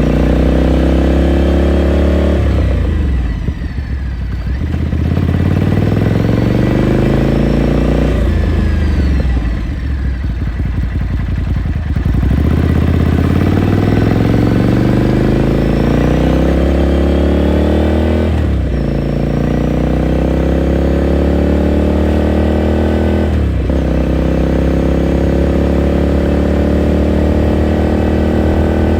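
Ducati Scrambler Sixty2's 399 cc air-cooled L-twin engine, heard onboard while riding. The pitch climbs under acceleration, falls away twice as the throttle is eased off to coast, then pulls up through the gears with two quick upshifts in the second half.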